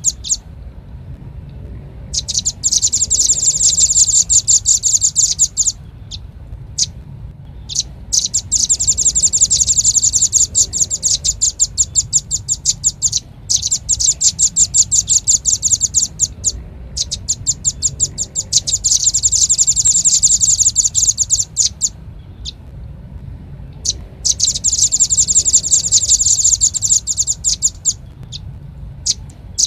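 Velvet-fronted nuthatch calling: bouts of rapid, evenly repeated high chipping notes, each a few seconds long, broken by short pauses with a few single notes between.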